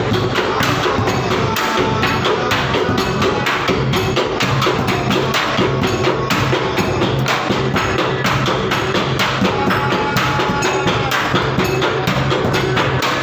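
Bedug, the large Indonesian mosque drum, beaten in a fast, dense rhythm together with sharp wooden knocks.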